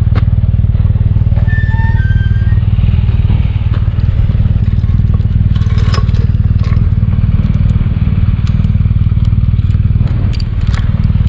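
BMW R1200GS boxer-twin engine running steadily at a low, even pitch, with scattered clicks and clatter over it.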